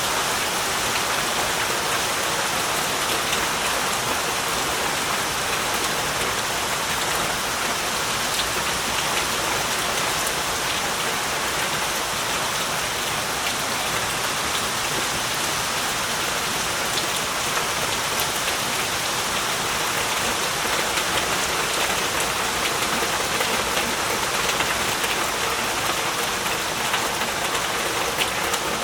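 Heavy rain falling steadily, a dense even hiss of rain with many close drops pattering on surfaces.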